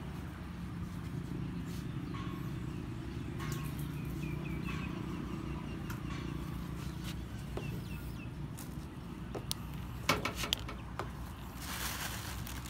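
A steady low hum with a bird chirping in short quick runs, and handling of a loose dry feed bait mix, with a few sharp clicks about ten seconds in and a rustle near the end.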